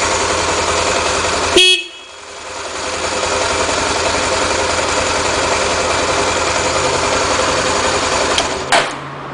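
Honda XR 250 Tornado single-cylinder motorcycle engine running with a steady pulse, with a short horn beep about a second and a half in. Near the end there is a second brief beep with a falling tone, and the engine stops.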